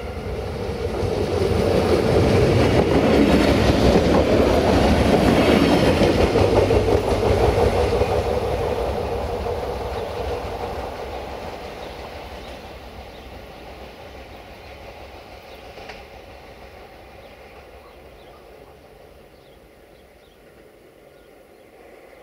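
Siemens Desiro VT642 diesel multiple unit passing close by, engine and wheels clattering over the rail joints. It grows loud over the first couple of seconds, stays loud for several seconds, then fades away.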